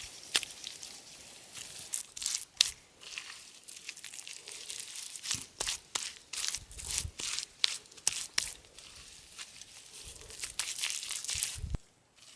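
Irregular crackling and rustling with many sharp snaps and a few dull thumps, cutting off suddenly near the end.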